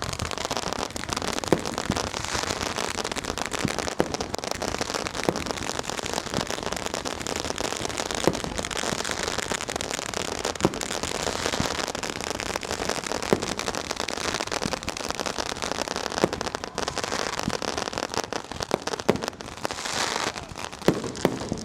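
Firecrackers and fireworks going off all around in a dense, unbroken crackle, with louder sharp bangs every second or two.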